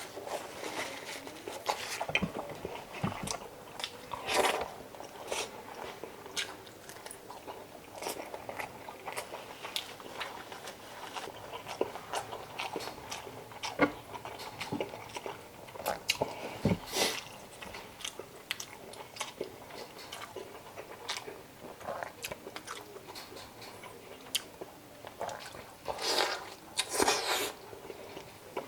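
Close-up mouth sounds of a person eating chicken adobo: irregular chewing, lip smacks and small crunches.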